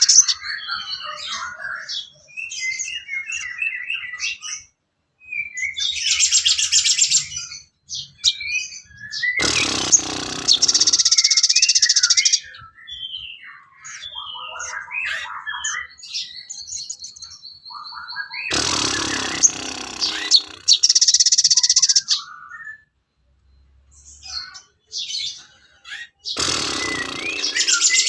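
Recorded songbird song for bird training: loud bursts of rapid, dense chattering song recurring about every eight to nine seconds, with short chirps and brief whistled notes between them.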